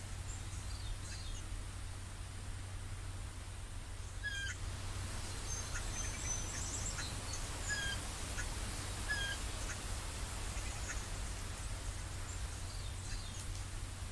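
Outdoor ambience of scattered short bird chirps and calls over a steady low hum.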